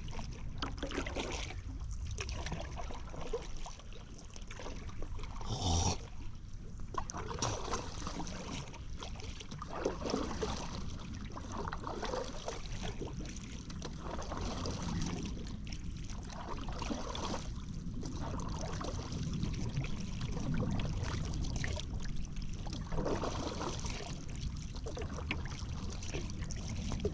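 Paddle strokes in river water, a splash and drip recurring about every one to two seconds, with a steady low rumble under them. A single sharp knock comes about six seconds in.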